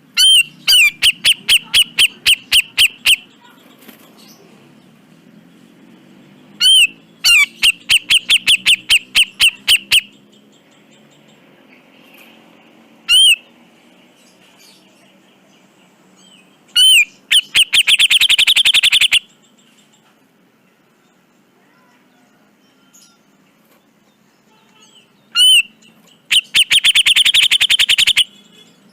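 Cucak jenggot (grey-cheeked bulbul) calling in loud, harsh phrases. Each phrase opens with a single ringing note, followed by a rapid stuttering series of notes, about four a second, lasting two to three seconds. Two of the series, around the middle and near the end, run faster and merge into buzzy rattles.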